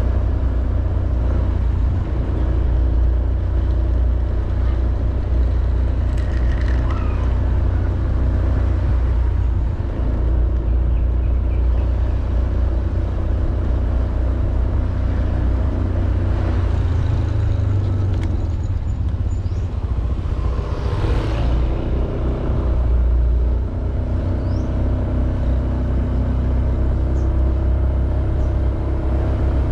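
Honda Beat 110cc scooter's single-cylinder engine running steadily while riding, heard with a heavy low rumble. About two-thirds of the way through, a louder whoosh swells and fades.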